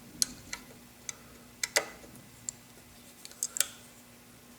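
Irregular light metallic clicks and taps, about nine over four seconds, from hand adjustment of the planer's pressure bar with a height gauge and set screw. A faint steady hum lies under them.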